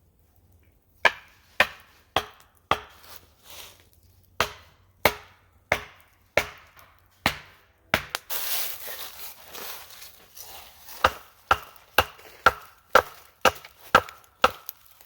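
A blade chopping into wood in a steady series of sharp strikes, about two a second, with a pause in the middle. A short hissing noise comes about eight seconds in.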